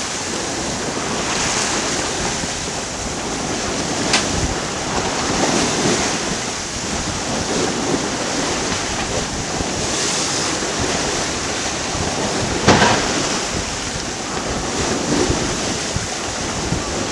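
Steady rush of wind and water around an Island Packet 35 sailboat's hull as it sails close-hauled, beating into chop in 18 to 20 knots of wind, with wind buffeting the microphone. Two sudden sharp hits break through, one about four seconds in and a louder one near thirteen seconds.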